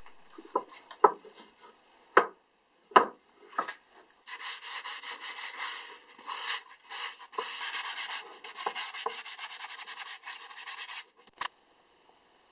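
A few knocks as the wooden axe handle is handled on the board, then hand-sanding of the handle: quick back-and-forth scratchy strokes for about seven seconds, stopping shortly before the end.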